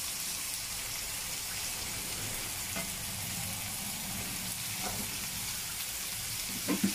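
Chopped eggplant, tomato and onion frying in oil in a pan, giving a steady sizzle. A few faint knocks come through it, and a louder knock near the end.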